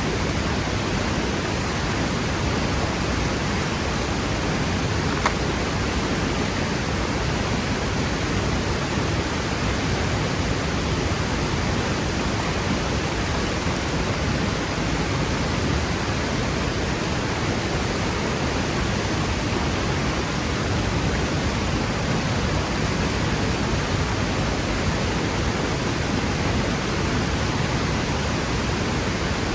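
Waterfall's steady roar of rushing water, an even, unbroken noise, with one brief faint click about five seconds in.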